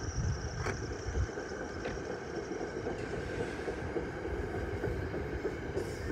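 A train running along the track: a steady rumble and rail noise, with a couple of sharp clicks in the first two seconds.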